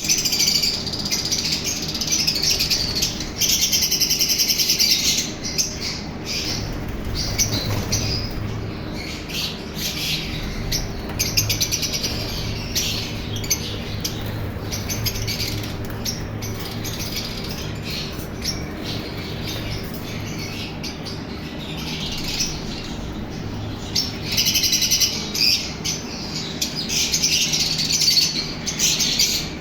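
A colony of albino lovebirds chirping and chattering, with many short, high calls overlapping. The chatter is busiest near the start and again near the end.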